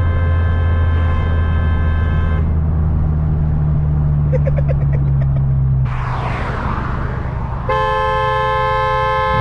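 Car engine droning steadily under way, with a car horn held for about two and a half seconds at the start and again from about three-quarters of the way through. Just before the second honk the engine note drops and a short hiss rises and falls.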